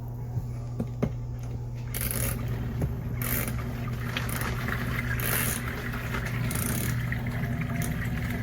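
Portable mini washing machine running: a steady motor hum, with an uneven swishing noise joining about two seconds in.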